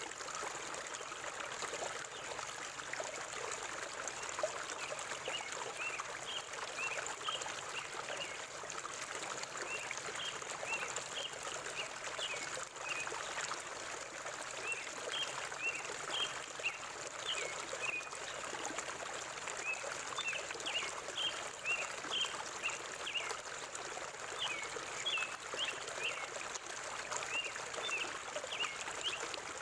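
Forest river water flowing steadily, with small birds giving short, high chirps in repeated clusters throughout.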